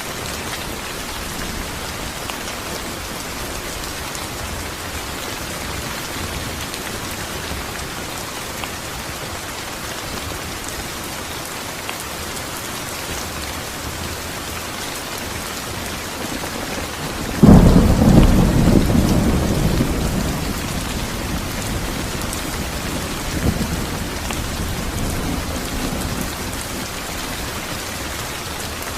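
Steady rain falling, with a sharp thunderclap about two-thirds of the way through that rumbles and fades over several seconds.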